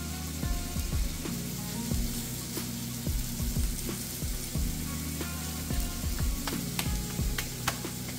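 Food sizzling as it fries in a hot pan, with scattered sharp pops of spatter, over background music.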